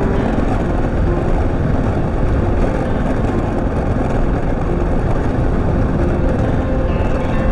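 Husqvarna TR650's single-cylinder engine running steadily under way through deep sand, heard from the bike with a heavy, even rumble over it.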